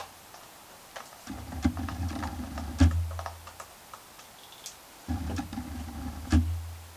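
Small electric screwdriver driving laptop case screws, in two runs of about two seconds each, a steady low motor hum with sharp clicks and taps of handling. A loud click comes at the very start.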